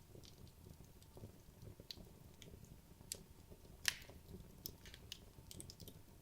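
Faint crackling of wood logs burning in a fireplace: scattered small pops, with one sharper pop about four seconds in.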